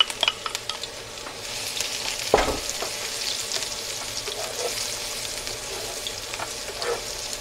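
Diced shallots and garlic sizzling in hot oil in a frying pan while a wooden spatula stirs and scrapes them. The sizzle swells after the first second or so, with light scraping clicks and one louder knock about two and a half seconds in.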